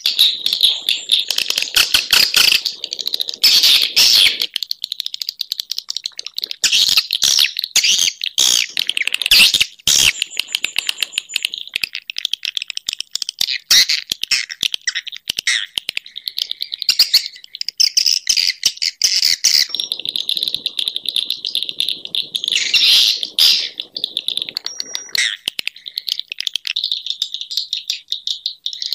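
Swiftlets twittering: a dense, unbroken stream of rapid high chirps and clicks, as in a swiftlet calling recording.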